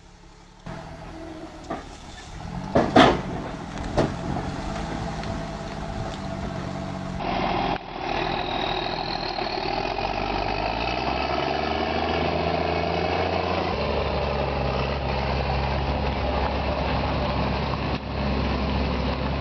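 Heavy truck engine running under load, with two sharp knocks a few seconds in. About seven seconds in the sound cuts to a louder, steady engine drone with a faint rising whine.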